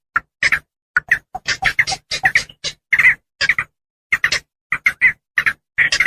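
Javan pond herons giving short, harsh calls in a fast, uneven series, often in pairs, about four a second, with sudden silences between the notes: an edited lure recording for catching pond herons.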